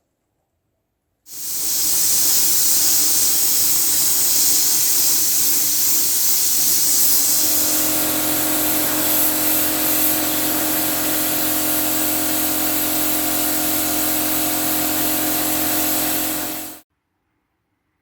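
Paint being sprayed onto the parts of an old electric heater: a continuous hiss that starts about a second in and cuts off sharply near the end, with a steady hum of several tones joining about halfway.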